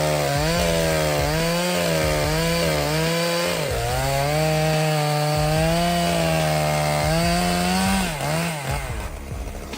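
STIHL MS661 C-M two-stroke chainsaw running at high revs while cutting wood, its pitch sagging briefly under load and recovering several times. About eight seconds in the engine note breaks up and the sound drops off.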